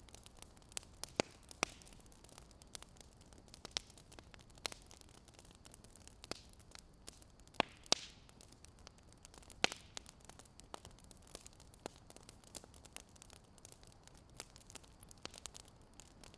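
Fire crackling: irregular sharp pops and snaps, a few louder than the rest, over a faint steady hiss.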